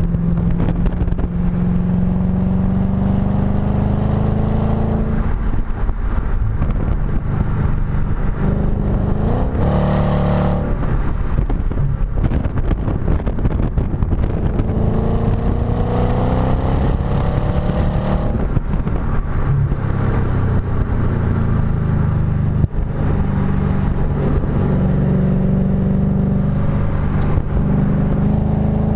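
Audi B7 S4's 4.2-litre V8 through a STaSIS aftermarket exhaust, heard at the tailpipe at racing speed: the exhaust note climbs in pitch under acceleration several times and falls back between as the car shifts and brakes.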